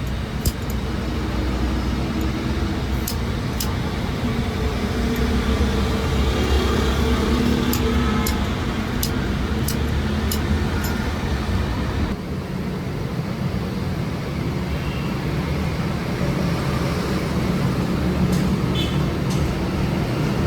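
A motor or machine running steadily with a low rumble, with scattered sharp clicks; the sound changes abruptly about twelve seconds in.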